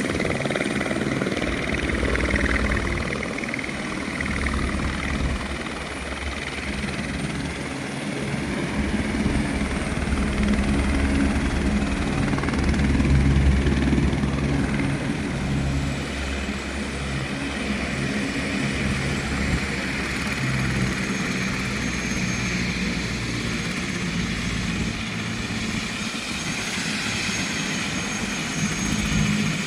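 Helicopter coming in to land: steady low rotor beat with turbine noise, and a thin high whine that drops in pitch about two-thirds of the way through.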